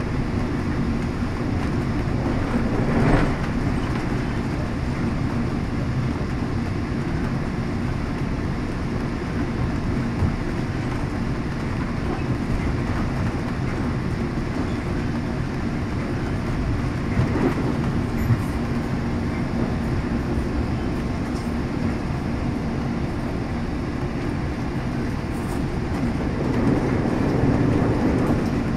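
Steady rumble of a moving passenger train heard from inside a 1978 Hawker Siddeley Canada bilevel coach, with a low steady hum under it. There are a few sharp knocks from the wheels and car a few seconds in and again about two-thirds through, and the rumble grows louder near the end.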